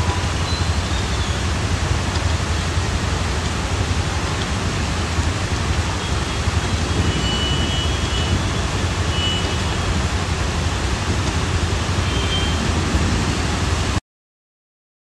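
Heavy monsoon rain pouring down on a flooded street: a steady, dense hiss that cuts off suddenly near the end.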